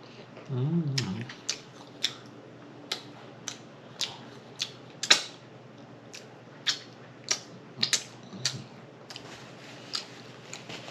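Close-miked mouth sounds of a person eating: a short hummed "mm" about a second in, then wet lip smacks and chewing clicks, irregular, about one or two a second.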